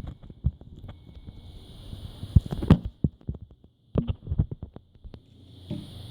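Ford Coyote 5.0 V8 breathing through Kooks long-tube headers, a catted H-pipe and Ford Racing sport axle-backs, idling with a low burble and given two short, light throttle blips about two and a half and four seconds in.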